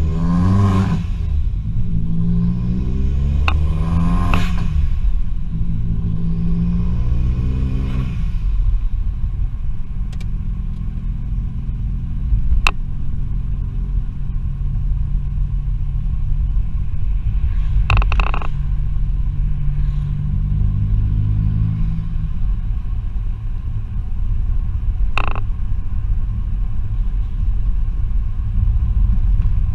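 Remapped Vauxhall Z20LET 2.0 turbocharged four-cylinder engine in an Astra van, heard from inside the cabin. It accelerates through the gears in three rising revs over the first eight seconds, then settles to a steady low drone while cruising. A few brief sharp cracks stand out over it.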